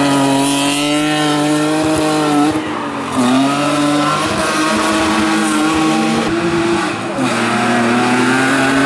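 Competition car engine held at high, steady revs, dropping briefly about three seconds in and again about seven seconds in.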